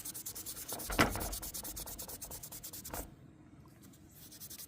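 A fast run of even rubbing or scraping strokes for about three seconds, with a knock about a second in and another as the rubbing stops.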